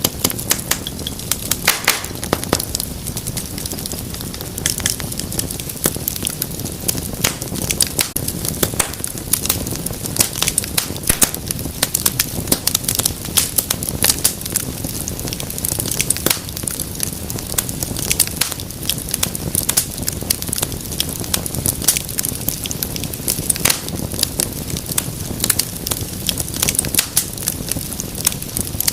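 Wood fire in a fireplace crackling steadily, with frequent sharp pops and snaps over a low rumble of flame.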